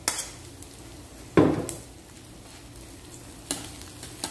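Chopped garlic and onion sizzling in hot oil in a wok while a metal spatula stirs and scrapes them. A loud knock about a second and a half in, with smaller clacks near the end.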